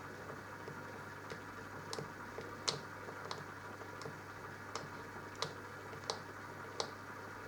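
Minicolo mini washing machine running a wash cycle: a steady motor hum with a sharp click roughly every two-thirds of a second.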